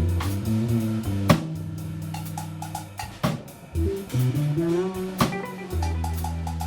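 Band music with electric guitar, bass and drum kit, with a sharp drum hit about every two seconds.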